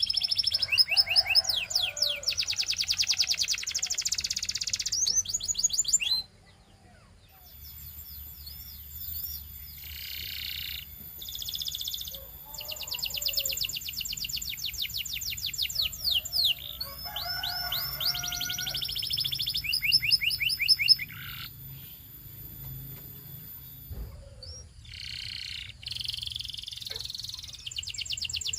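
A canary singing fast trills and rolls of rapidly repeated notes, in phrases of a few seconds with short pauses between. The song stops about six seconds in and picks up again a few seconds later, with a faint steady high whine behind it for a while.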